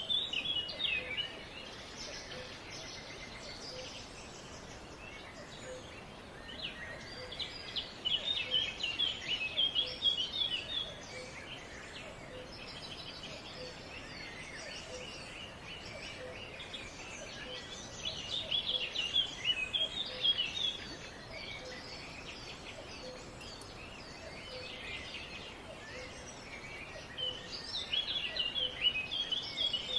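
Several songbirds chirping, with loud flurries of rapid chirps about every nine or ten seconds and softer chirping between them. A faint low note repeats about once a second beneath.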